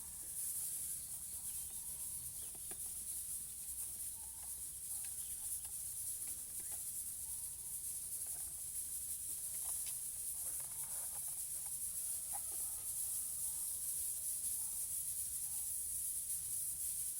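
A steady high-pitched hiss throughout, with faint, scattered short bird chirps and calls, busiest about two-thirds of the way through.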